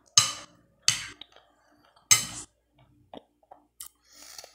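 A person chewing a mouthful of food, with three short wet mouth smacks in the first two seconds or so, then a few faint clicks and a soft breathy hiss near the end.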